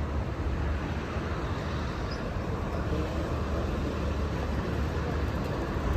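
Steady low rumble and hiss of vehicle noise, with no sudden sounds.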